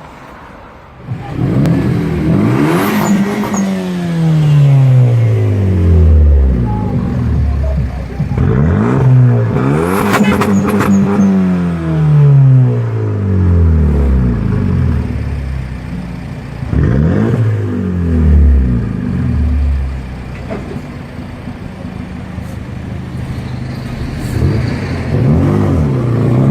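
A car engine is revved in four blips. Each rev climbs quickly, then falls slowly back to idle, and the engine idles steadily between them.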